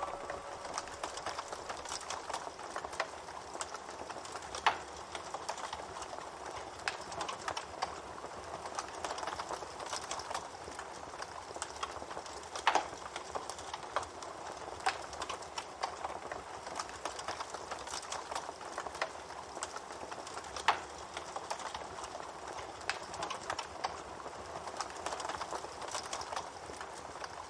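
Campfire crackling steadily, with frequent sharp pops and snaps of burning wood and a few louder pops spread through.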